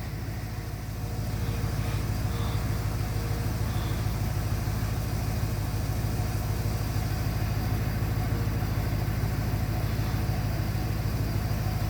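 A steady, low engine hum, like a vehicle idling, with an even rushing noise over it.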